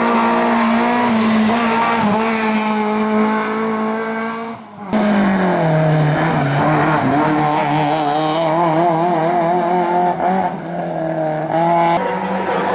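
Hillclimb race cars running hard at high revs: one engine note is held almost steady, then after a sudden break about five seconds in, a second engine note drops and wavers rapidly up and down as the revs rise and fall.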